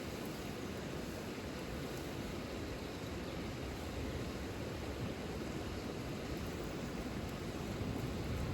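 Steady rain falling, an even rush strongest in the low range, with no separate drops or crackles standing out.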